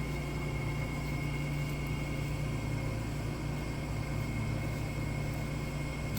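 Steady mechanical hum with a low drone and a thin, steady high whine, unchanging throughout.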